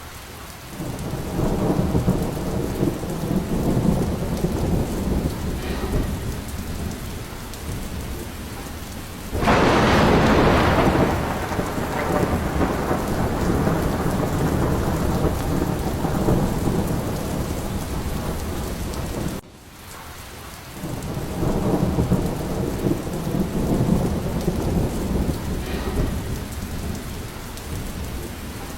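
Steady rain falling with rolling thunder rumbling low beneath it. About a third of the way in, a sudden louder burst of thunder and rain. About two-thirds of the way through the sound drops away abruptly for a moment before the rumbling builds again.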